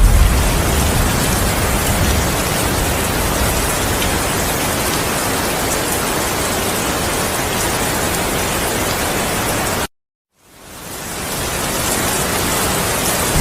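Steady heavy rain, an even hiss, with the low rumble of thunder dying away in the first couple of seconds. About ten seconds in the sound cuts out completely for half a second and then fades back in, the join of an edited recording.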